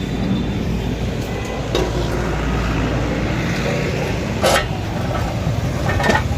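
Steady low rumble of a running vehicle engine, with a few sharp knocks; the loudest knock comes about four and a half seconds in.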